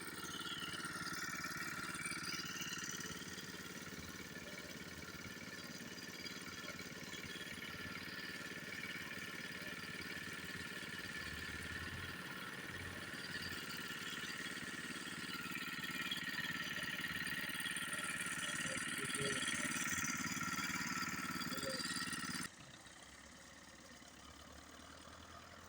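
Russian tractor's diesel engine running steadily at a constant speed. About 22 seconds in, the sound drops away abruptly, leaving a quieter background.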